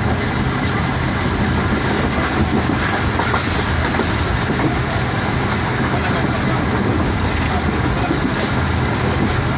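Passenger train running at speed, a steady rumble of wheels on track with the rush of air, heard from inside a carriage at an open window.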